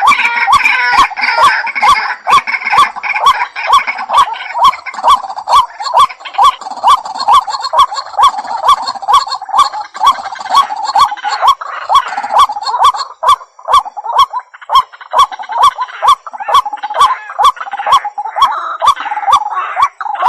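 White-breasted waterhen calling: one note repeated about two and a half times a second with a sharp click at the start of each. Busier chattering calls sound over it at the start and again near the end.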